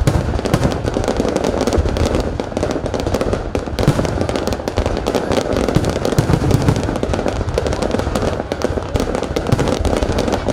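Fireworks display: a dense, continuous run of crackling bursts with low booms underneath.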